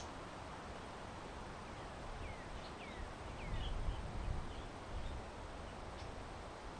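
Small birds calling: a few short downward-sliding chirps, then brief twitters, about two to four seconds in. Under them, wind noise on the microphone rumbles steadily and gusts louder around the middle.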